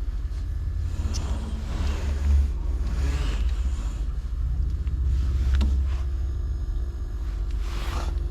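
Refrigerator compressor motor running with a steady low hum, a sign that the motor works, with a few light clicks and rustles of handling over it.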